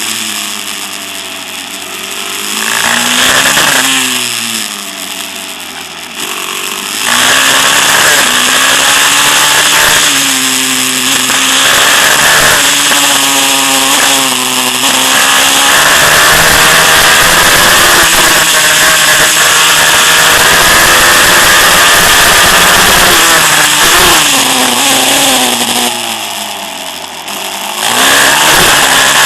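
Small single-cylinder pit bike engines revving up and down as they ride, the pitch rising and falling again and again. Quieter at first, loud from about seven seconds in, easing off briefly near the end before coming back up.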